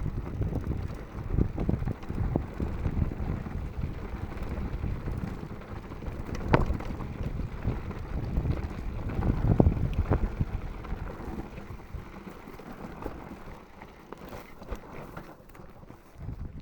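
Mountain bike clattering over a rough, rocky trail on a descent, with wind buffeting the microphone of a GoPro action camera. Rumbling, with many short knocks from bumps and a couple of sharper ones about six and a half and nine and a half seconds in.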